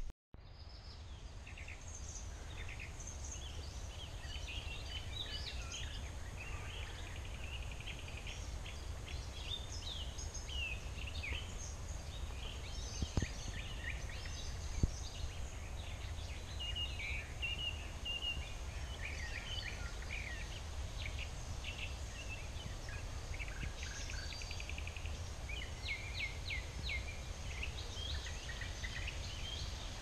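Small birds chirping and singing in short, scattered notes throughout, over a low steady rumble, with two brief knocks about halfway through.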